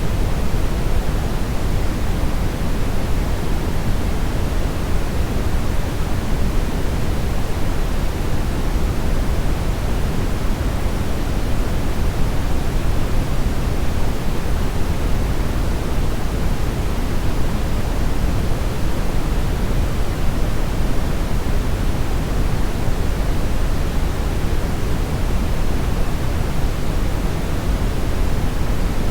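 Steady brownish noise: an even, unchanging hiss weighted toward the low end, deep rumble strongest and the treble softer.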